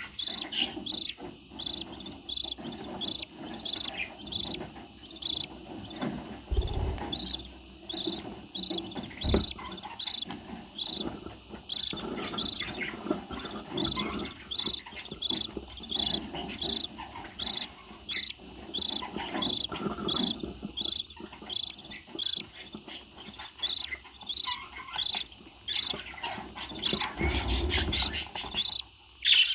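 A bird chirping, short high chirps repeated about twice a second. Near the end comes a louder run of quick sweeping calls with a low thump.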